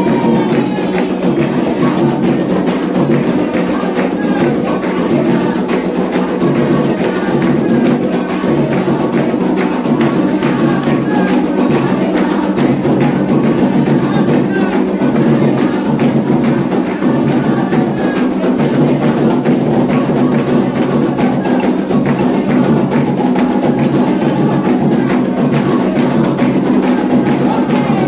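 Candomblé atabaque hand drums playing a continuous ritual drum rhythm for Oxossi, with a sharp, high struck percussion part keeping time over the drums.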